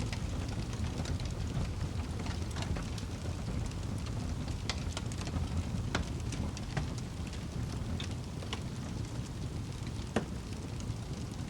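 Wood fire burning in a fireplace: a steady low rumble with irregular crackles and small pops, one louder pop near the end.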